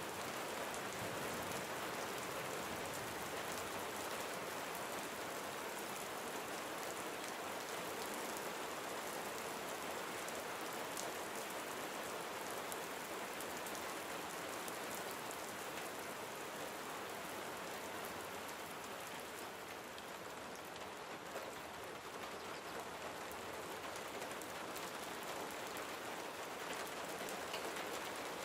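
Steady gentle rain falling, with many individual drops ticking through an even hiss.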